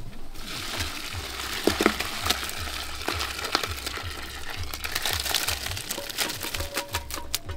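Food sizzling and crackling in hot oil in a cooking pot, starting suddenly about half a second in.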